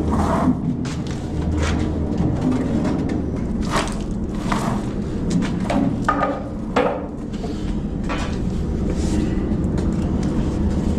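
Irregular knocks, taps and scrapes of work on the tank, about one every second or so, over a steady low rumble.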